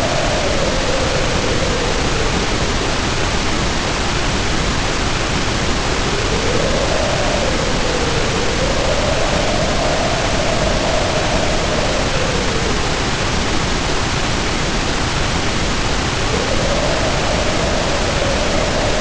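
Storm sound: heavy rain pouring as a steady, dense hiss, with wind howling over it in a wavering tone that rises and falls in pitch. The howl fades a few seconds in and swells back twice.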